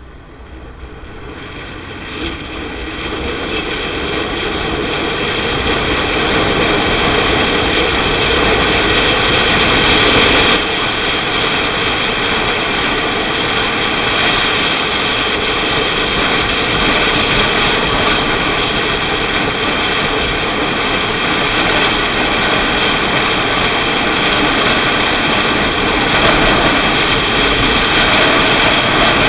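Motorcycle engine and wind rush at the rider's microphone, growing louder over the first six seconds, then holding steady as the bike cruises.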